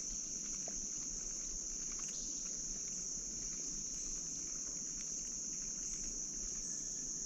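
Steady high insect chorus, an even unbroken drone of crickets, with a soft low wash of background noise beneath.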